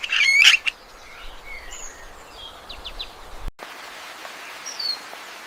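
Forest birds calling: a burst of loud chirps in the first second, then scattered faint chirps and one short whistle over a steady background hiss. About three and a half seconds in, the sound breaks off for an instant and a slightly different steady hiss takes over.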